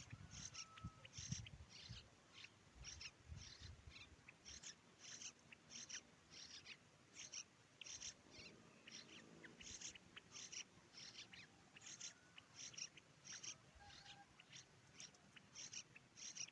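Faint, short, high bird calls repeated about two times a second.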